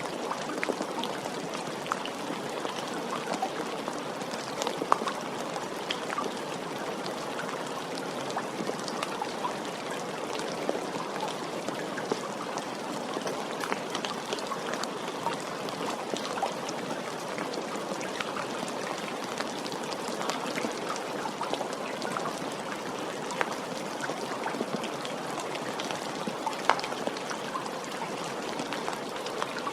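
Steady rain with individual drops ticking sharply here and there.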